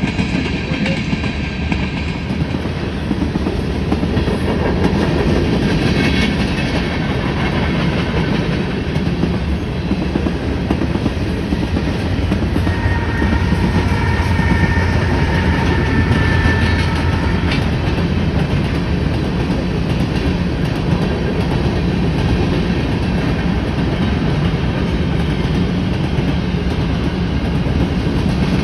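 CN freight train rolling past at speed, a steady loud rumble and clickety-clack of tank cars and covered hoppers on the rails, with a faint high whine for a few seconds midway.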